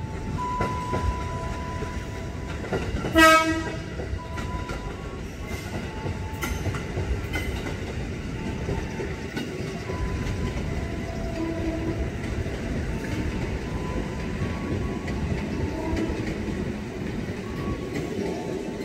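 KRL commuter electric train running on the tracks, a steady rumble of wheels on rail, with one short, loud horn blast about three seconds in.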